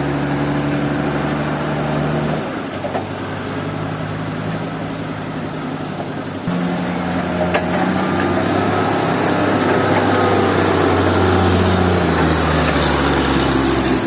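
An engine running steadily, its pitch shifting a few times, becoming louder about six and a half seconds in.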